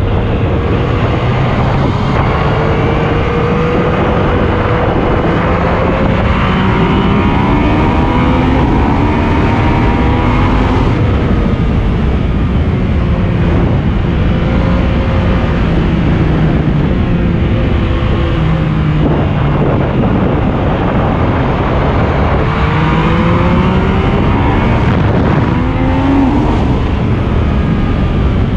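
Yamaha motorcycle engine under way, climbing in pitch as it accelerates and dropping back several times, over a constant rush of wind noise on the action-camera microphone.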